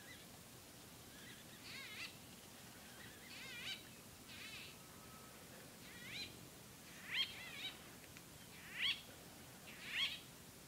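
A bird calling over and over: short, wavering high notes about once a second, louder in the second half.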